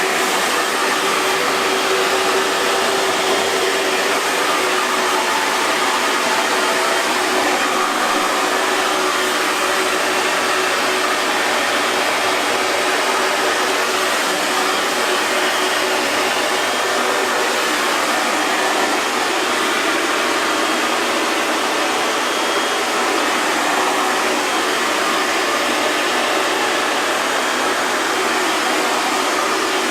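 Hair dryer running steadily: an even rush of blown air with a faint motor hum underneath.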